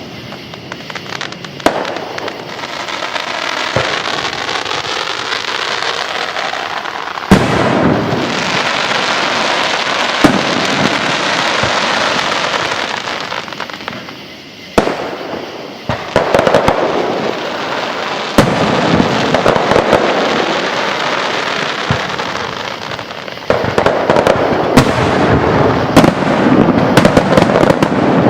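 Aerial fireworks going off: a continuous crackling and hissing of bursting shells, broken by sharp loud bangs every few seconds, with a quick run of cracks near the end.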